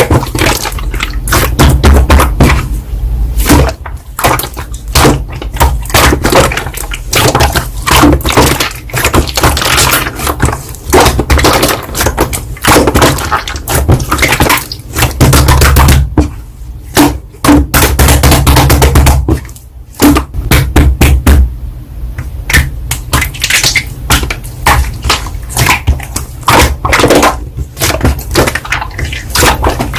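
Slime being squeezed, pressed and stretched by hand: a dense, irregular run of crackling, clicking pops with some heavier low thumps.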